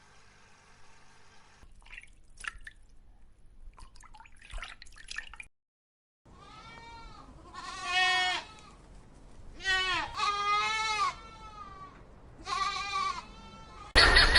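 Faint trickling with scattered drips, then after a short cut three loud, quavering bleats about two and a half seconds apart, each lasting about a second.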